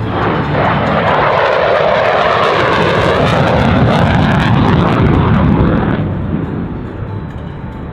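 F-35B Lightning II's Pratt & Whitney F135 turbofan making a loud jet-noise pass overhead. The pitch sweeps down and back up as it goes by, and the noise fades about six seconds in.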